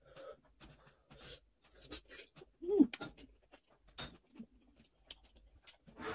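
Close-miked chewing of steamed egg momo dumplings: a run of small wet mouth clicks and smacks. Just before three seconds in comes a short hummed voice sound, the loudest moment.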